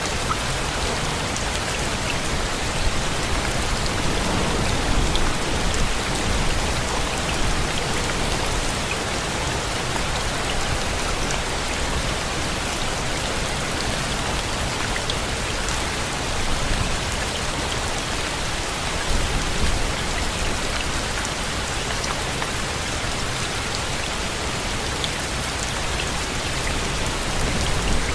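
Steady rain falling, an even hiss of drops, with low rumbling swells a couple of times.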